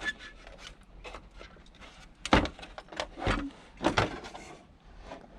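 Plastic casing of a tower heater being worked loose by hand: three sharp knocks about two, three and four seconds in, with light handling noise between.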